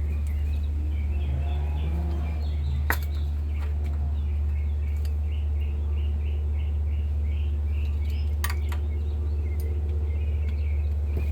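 Small birds chirping in rows of short repeated notes over a steady low rumble, with two sharp metallic clinks about three and eight and a half seconds in.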